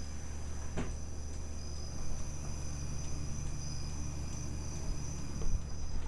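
Room tone: a steady low electrical hum with a thin, constant high-pitched whine, broken by a single click about a second in and a few faint knocks near the end.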